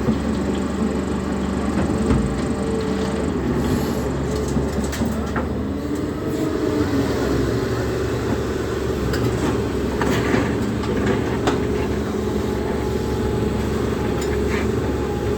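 Volvo EC300DL excavator's diesel engine running steadily under load while it loads a truck, with a few sharp knocks and a brief rise and fall in pitch partway through.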